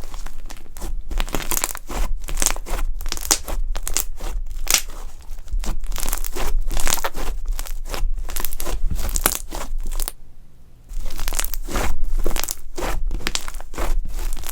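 Fluffy slime being squeezed and stretched by hand, giving a dense, continuous crackling and popping, with a brief pause about ten seconds in.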